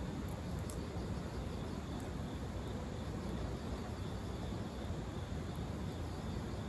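Wood fire burning in a fire pit stand: a steady low rush with a few faint crackles, the first near the start and another about two seconds in.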